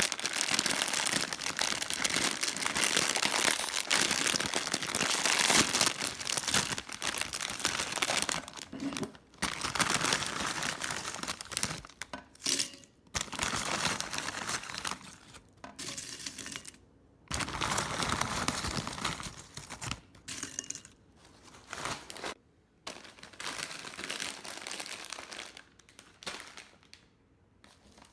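Crinkling, rustling handling noise, steady for the first several seconds and then in short bursts with brief pauses.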